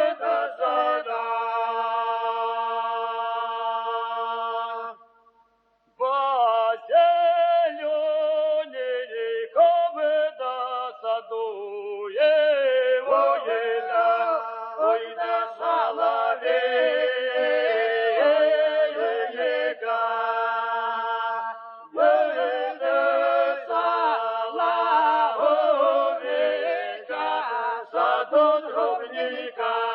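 Soundtrack music of unaccompanied singing voices, long held notes and melodic runs, with a brief break about five seconds in.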